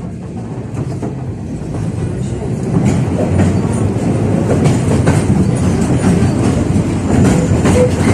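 71-605A (KTM-5A) tram gathering speed, its running noise growing louder over the first three seconds and then holding steady, with the wheels clacking now and then over rail joints.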